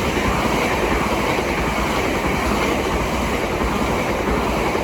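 Southern Class 377 electric multiple-unit train passing through the station, a steady loud rush of wheel, rail and air noise.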